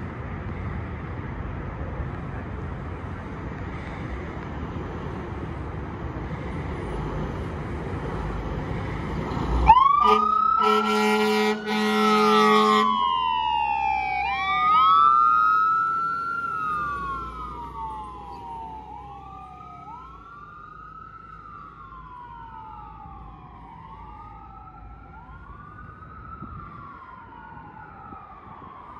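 Fire engine's engine rumbling, then about ten seconds in its air horn blasts twice as the siren starts up. The siren then wails up and down steadily, fading as the truck moves away.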